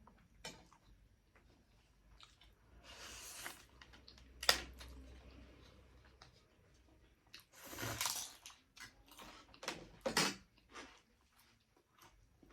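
A person eating close to the microphone: chewing and mouth sounds with scattered small clicks. There are a few louder moments, a sharp click about four and a half seconds in and short noisy bursts around three, eight and ten seconds in.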